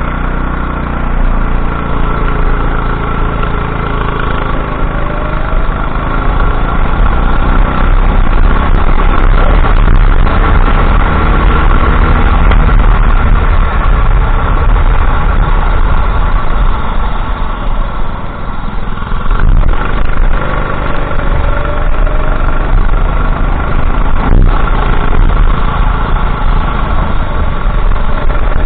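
Go-kart engine running at race pace, its pitch gliding up and down as the revs change, with a steady rush of wind and track noise. Two brief knocks come about two-thirds of the way through.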